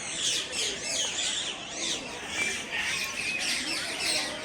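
Many birds calling over one another, a dense chatter of short squawks and chirps.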